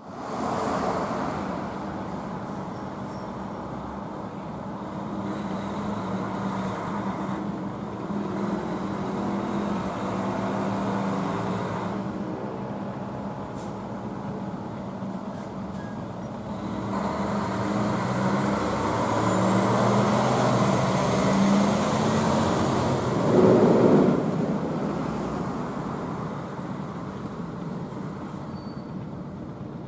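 Fire engine's diesel engine running as the rig moves off, growing louder about two-thirds of the way through with a high whine that rises and falls, and a short loud burst near the peak.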